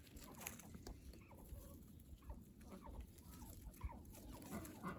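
Faint, soft calls of domestic ducks and geese: short quiet chirps and clucks scattered through, with light rustling.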